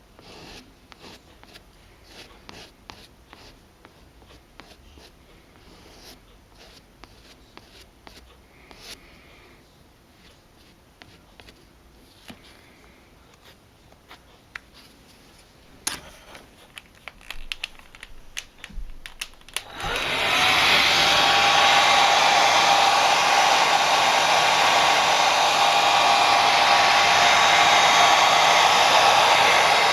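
Faint scattered clicks and taps of handling, then about two-thirds of the way in a small electric motor appliance switches on and runs loud and steady, a whirring noise with a steady whine in it.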